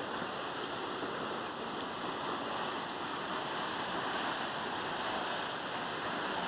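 Waterfall's water rushing, a steady, unbroken hiss.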